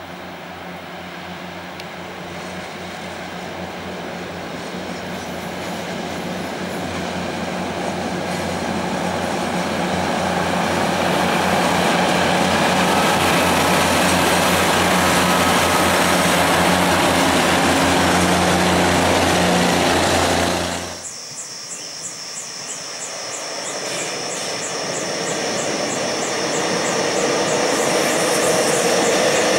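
A diesel multiple-unit passenger train approaching and passing: its engines drone steadily under wheel-on-rail rumble, growing louder to a peak. About two-thirds of the way through it cuts abruptly to a train crossing a steel girder bridge, with a regular clicking of the wheels that builds in level.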